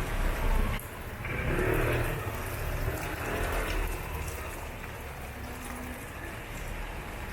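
Steady city traffic noise, with a brief sudden dip about a second in.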